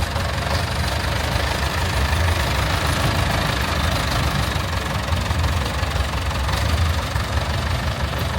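Classic car engine idling steadily through a straight-piped exhaust, a deep, even rumble.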